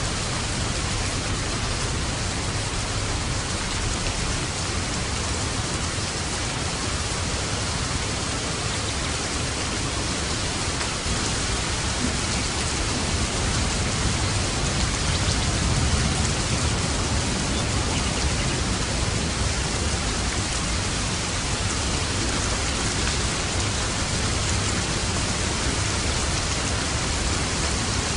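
Steady, heavy rain falling, with a low rumble of distant thunder swelling up around the middle.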